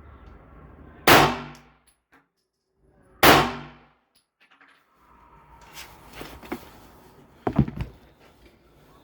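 Two gunshots from a Glock pistol mounted in a Fab Defense Roni carbine chassis, about two seconds apart, each a sharp crack with a short ringing tail. They are followed by quieter knocks and clicks, with a brief louder clatter a little after seven seconds in.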